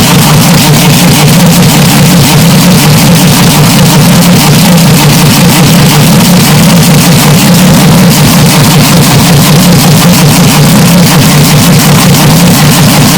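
Deliberately over-amplified, heavily clipped and distorted engine-like drone, presented as a historic Formula One race car. It holds one steady low pitch at constant full loudness, with no rising or falling pass-by.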